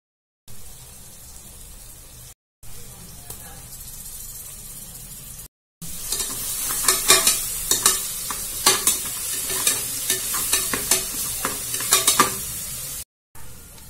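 Chopped onions and tomatoes sizzling in hot oil in an aluminium pressure cooker. From about six seconds in they are stirred with a spoon, which scrapes and clicks against the pot over the louder sizzle.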